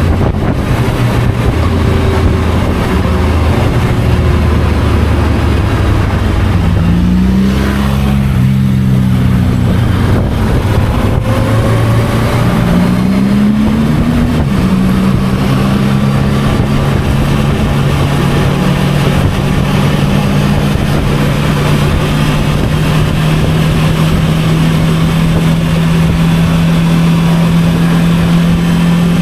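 Motorcycle engine running while riding. Its pitch rises twice, about 7 and 13 seconds in, and each time drops back. From about 15 seconds in it holds a steady note.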